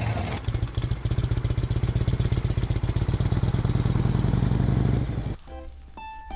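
Harley-Davidson V-twin motorcycle engine running with a fast, even pulsing beat. It drops away suddenly about five seconds in, and plucked-string music begins.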